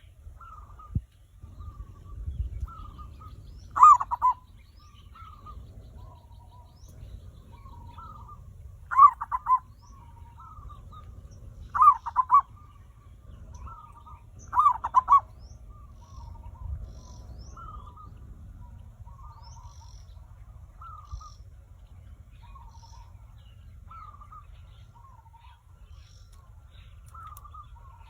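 Zebra dove (perkutut) cooing: four loud bursts of rapid, stuttering coos in the first fifteen seconds, with softer short coos between them and on through the rest.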